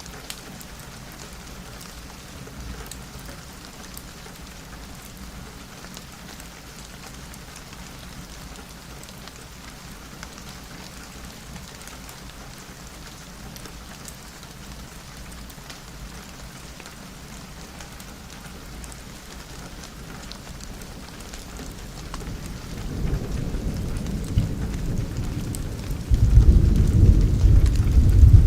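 Steady rain falling, then a roll of thunder: a low rumble that comes in about three quarters of the way through and swells to its loudest in the last couple of seconds.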